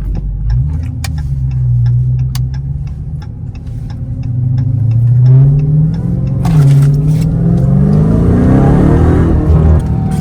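Dodge Charger Hellcat's supercharged 6.2-litre V8, on its stock exhaust, accelerating hard. The engine note climbs, drops sharply at an upshift about six and a half seconds in, then climbs again.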